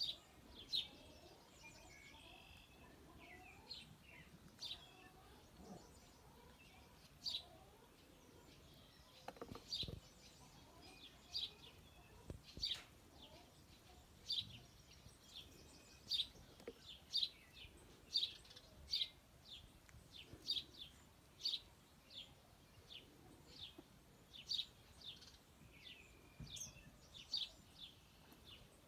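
A small bird chirping over and over, short high chirps about one or two a second, over faint outdoor background noise.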